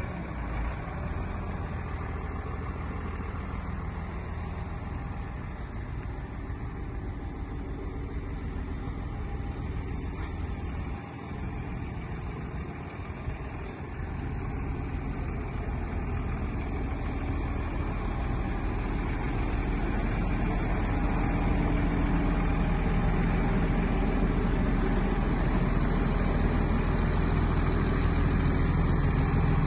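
Deutz BF6M1012E six-cylinder diesel engine of an O&K MH 5.5 wheeled excavator running steadily, getting louder from about halfway through.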